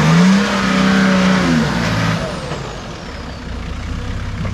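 4WD engine revving hard under load on a climb, held high for about a second and a half, then easing off and running lower before building again.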